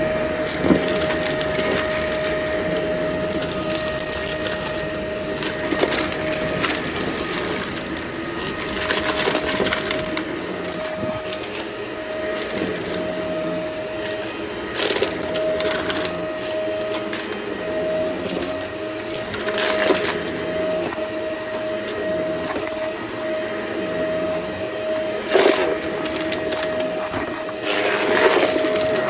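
Vacuum cleaner running with a steady whine while it sucks up miscellaneous crunchy debris: continuous crackling and rattling, with a sharper crunch every few seconds.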